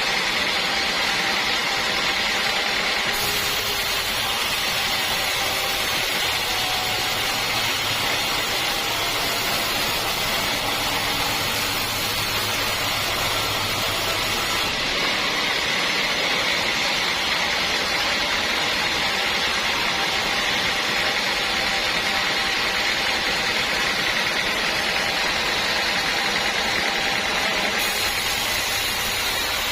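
Sawmill machinery running, a steady even mechanical noise with no breaks.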